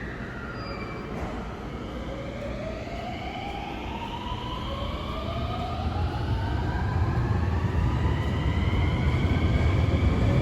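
521 series electric train pulling away and accelerating: its motor whine rises steadily in pitch in several climbing tones, over a low rumble that grows louder toward the end.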